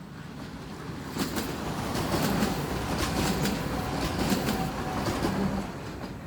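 An electric train passing on the line, its noise swelling up and fading away, with a run of sharp wheel clicks over the rail joints as it goes by.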